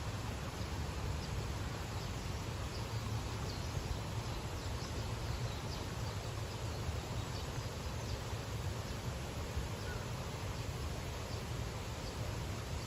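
Outdoor park ambience: a steady low rumble under a wash of noise, with faint, scattered high chirping, mostly in the first half or so.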